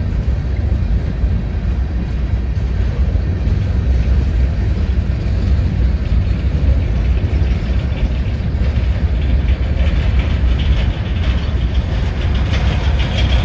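Freight train with diesel locomotives running steadily, a continuous low engine drone. A rattling, higher-pitched wheel-and-rail noise builds over the last few seconds.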